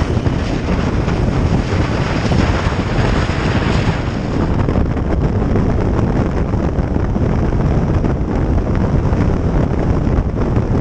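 Wind rushing over the microphone of a moving motorcycle, a loud, steady rush with a heavy low rumble of engine and road noise beneath it.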